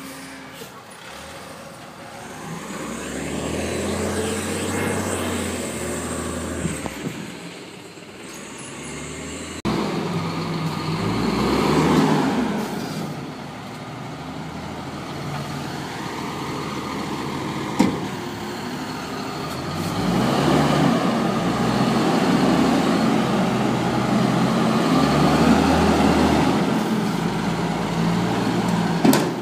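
Garbage truck engine running, its sound rising and falling back in several long swells, with a sharp knock about 18 seconds in.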